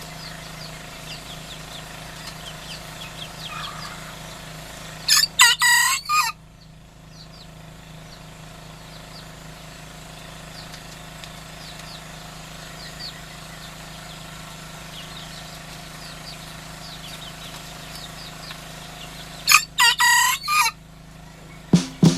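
A rooster crowing twice, each crow about a second long and the two crows about fourteen seconds apart. Faint high chirping continues between the crows.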